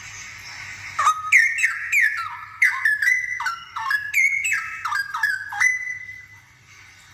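Straw-headed bulbul (cucak rowo) singing a rapid run of loud, rich whistled notes, many sliding down in pitch. The song starts about a second in and stops shortly before the end.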